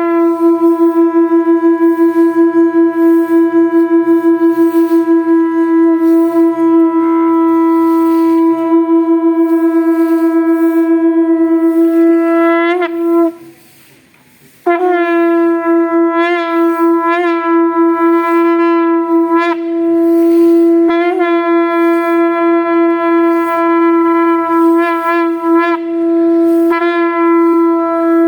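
Conch shell (shankha) blown in two long, steady blasts on one note, with a short pause for breath about thirteen seconds in. The note flicks briefly upward at the end of the first blast and wavers a few times during the second.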